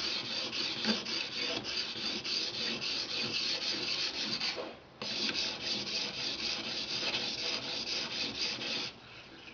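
An Edge Pro Apex sharpening stone is stroked rapidly back and forth along the edge of a Cold Steel Recon Tanto knife blade, giving a scraping rasp. The stroking comes in two runs with a short pause near the middle, and it is dressing the edge and raising a burr.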